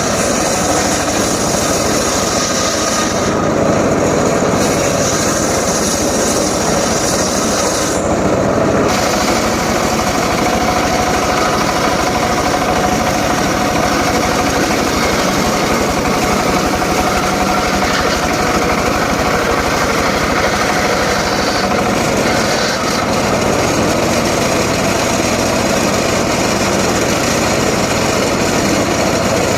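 Homemade engine-driven circular saw running steadily while cutting teak wood.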